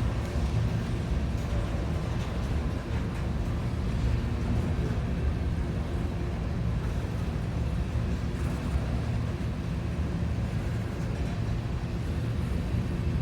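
Freight train of hopper cars rolling past, a steady low rumble of wheels on the rails.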